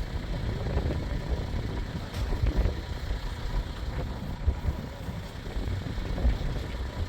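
A moving vehicle's engine and road noise: a steady low rumble.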